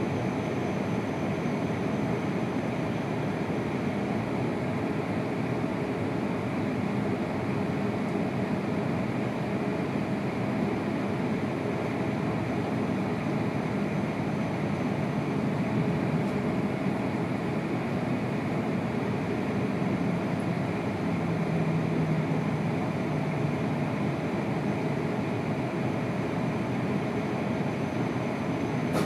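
Shinkansen train's running noise heard from inside the passenger car: a steady rumble and rush of wheels on rail and motors as the train runs slowly on its final approach to the platform.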